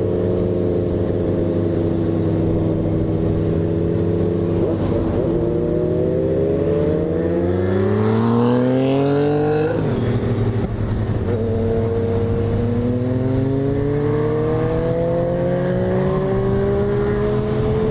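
Motorcycle engine running under load: a steady pitch for several seconds, then revving up, a sudden drop in pitch about halfway through at a gear change, and climbing again to the end.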